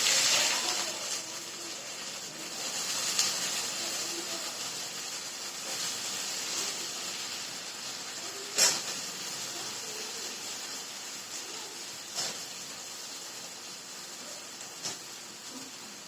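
Pointed gourd (parwal) frying in hot oil: a loud sizzle that starts just as the pieces go in and eases off slowly, with a few sharp pops along the way.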